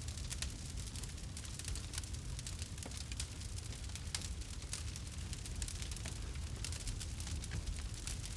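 Campfire burning, crackling steadily with many small irregular pops over a constant low rumble.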